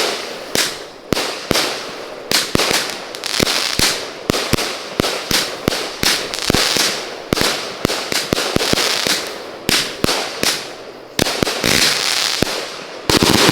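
A 100-shot consumer firework cake of color and salute shots firing. Sharp bangs come about two or three a second, each followed by crackling hiss, and the loudest report comes near the end.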